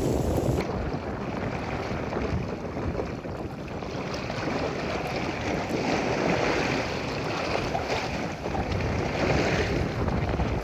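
Wind buffeting the microphone over the wash of sea waves.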